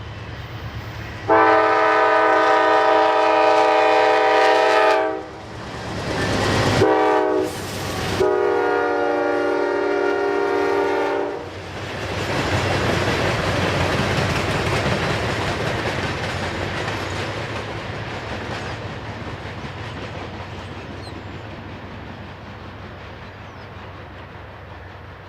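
GE D9-44CW diesel locomotive sounding its horn in two long blasts with a short burst between. It then rumbles past, wheels clattering over the rail joints as its few ballast cars follow, and the sound slowly fades away.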